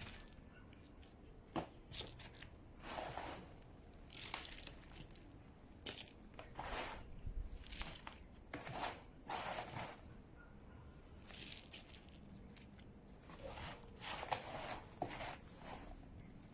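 Gritty potting mix of coarse weathered-rock granules and sand being scooped and poured into a plant pot around an agave: repeated short pours with pauses between.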